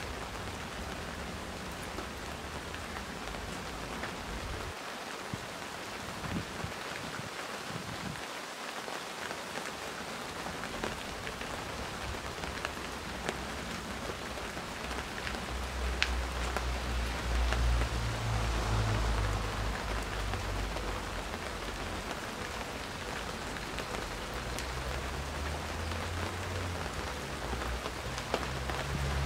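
Steady rain falling, with scattered individual drops ticking. A low rumble swells in about halfway through and again near the end.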